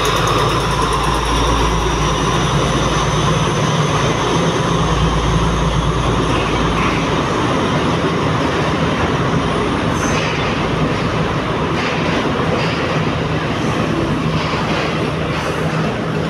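Sri Lanka Railways S8 class diesel multiple unit running out past the platform: a deep engine rumble with the rattle of the carriages on the rails, which fades about seven seconds in. The steady din of the station under the roof continues, with a few sharp clanks in the second half.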